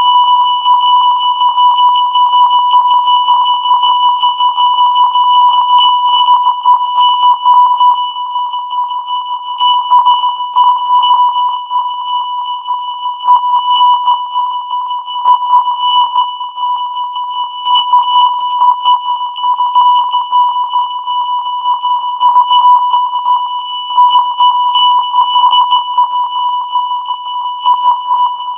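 Colour-bar test tone: a steady 1 kHz beep held without a break, with buzzy overtones and a level that wavers unevenly.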